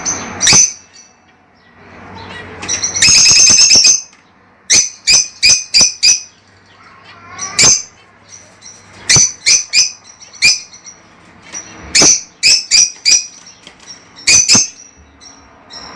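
Fischer's lovebirds chirping: loud, sharp high-pitched calls in quick clusters, with a dense rapid run of chirps about three seconds in. The calls are the excited breeding-season chatter used to stimulate pairs to mate.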